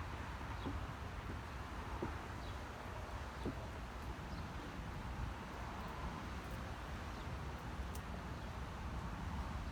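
Steady outdoor storm ambience: a low, even rumble with a noisy hiss over it and a few faint short chirps and clicks, with no distinct thunderclap.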